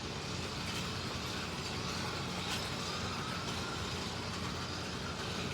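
Slot cars lapping a track: the small electric motors whine, rising and falling faintly in pitch as the throttle changes, over a steady rumble from the track.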